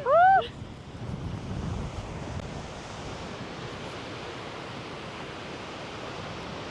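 Steady rushing of a large snowmelt-fed waterfall, with some wind on the microphone. Just after the start, a brief loud pitched call rises and falls once over the water noise.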